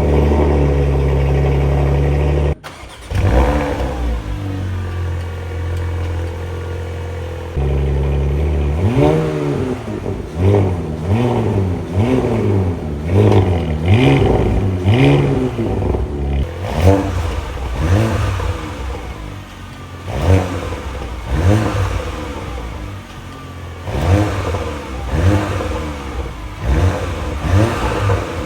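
Porsche Macan engine on its standard exhaust (no sport exhaust) running at a steady cold-start fast idle, cutting out briefly after about two and a half seconds. From about nine seconds in it is revved in short throttle blips, roughly one a second, each rising and falling in pitch.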